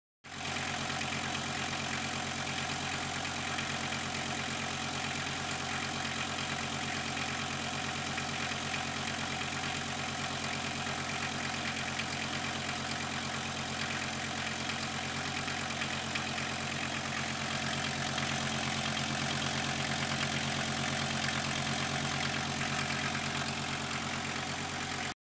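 Used Volkswagen T4 diesel engine idling steadily. It runs a little louder over the last third.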